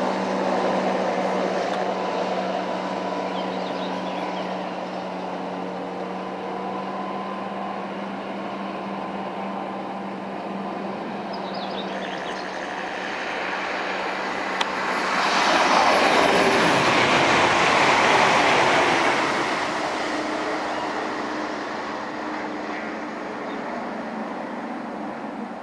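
Class 55 Deltic diesel locomotive running light, its twin Napier Deltic two-stroke engines giving a steady drone that fades away over the first dozen seconds. Later a broad rushing noise swells for a few seconds past the middle and dies away.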